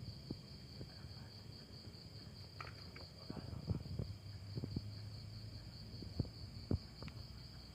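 Insects trilling steadily with a fast, even pulse, with scattered soft clicks and knocks over it.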